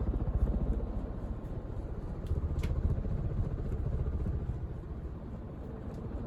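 1986 Casablanca Delta II ceiling fan running, a steady low rumble and whoosh of motor and moving air. Two faint ticks come about two and a half seconds in.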